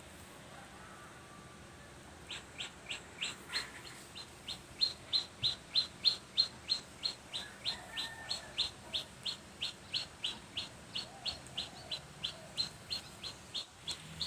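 A bird calling with a long run of short, high chirps repeated evenly at about three a second, beginning a couple of seconds in.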